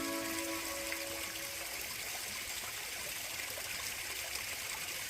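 Steady running water of a stream, a continuous rushing hiss. A few held music notes fade out in the first second and a half.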